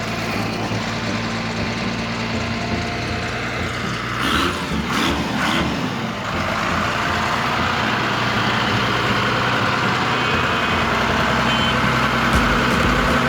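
An engine running steadily at idle, with a brief wavering higher sound about four to six seconds in.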